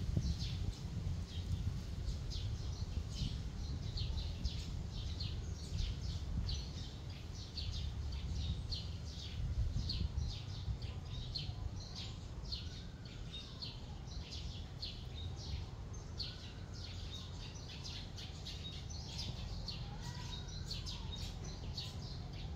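Small birds chirping in quick, continuous, overlapping chirps, over a steady low rumble. Faint rising and falling tones come and go in the second half.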